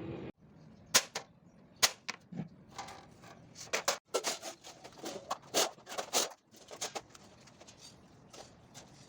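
Hammer tapping a center punch into a sheet-steel floor pan to mark points. Two sharp taps come about a second apart, then a quicker run of lighter taps.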